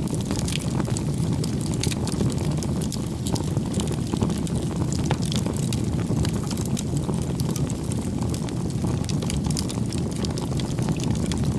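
Crackling wood fire: a steady low rumble of burning with frequent sharp crackles and pops scattered throughout.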